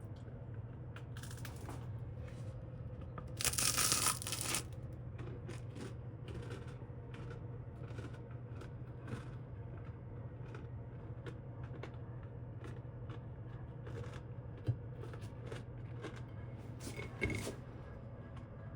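A bite into a toasted crumpet, a rough crunch about three and a half seconds in, followed by chewing heard as scattered soft clicks and crackles, with a second crunch near the end. A steady low hum runs underneath.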